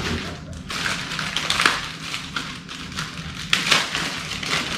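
Packaging rustling and crinkling, with irregular crackles and small knocks, as vacuum parts and cardboard packing are handled out of the box.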